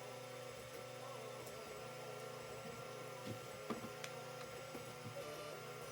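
Creality CR-10 3D printer running a print: its stepper motors give a steady hum with a warbling tone as the moves change, and a few light clicks come about three and a half to four seconds in.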